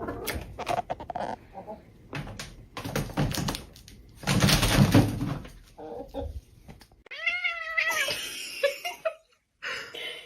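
A cat meowing: one drawn-out, bending meow about seven seconds in, after several seconds of scattered knocks and a short burst of noise.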